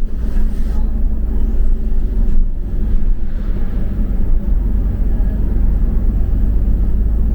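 A double-decker bus heard from inside: a steady low rumble of engine and road noise as it runs along.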